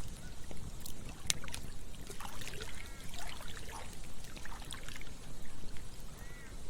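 Campfire crackling with scattered sharp pops, over the steady rush of a running stream, with a few brief gurgles about halfway through and near the end.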